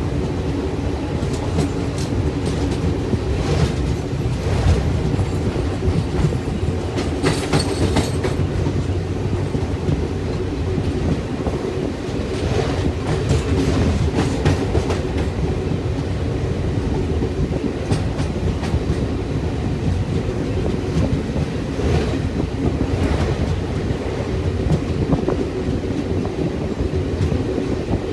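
Passenger train running at speed: a steady rumble of wheels on rails with scattered clacks over rail joints.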